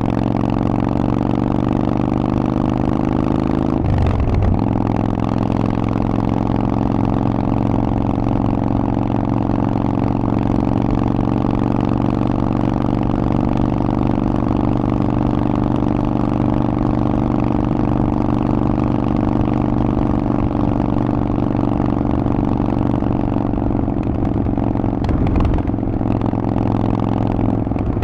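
Harley-Davidson Forty-Eight's air-cooled V-twin running through a Vance & Hines exhaust while riding. The note climbs a little over the first few seconds, breaks briefly about four seconds in, then holds a steady pitch.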